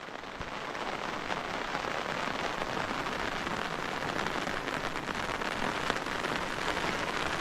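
Rain falling steadily, an even hiss that fades in over the first second or so.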